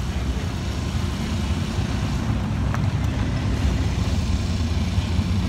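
A classic car's engine running as the car rolls slowly past, a steady deep rumble with a faint click near the middle.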